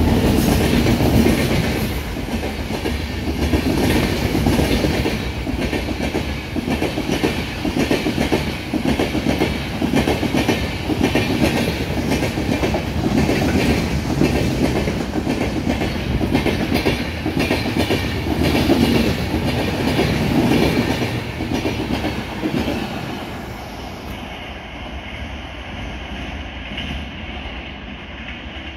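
Express passenger coaches passing through a station at speed: a loud, steady, rhythmic clatter of wheels over the rail joints. About 23 seconds in it falls away and fades as the end of the train draws off.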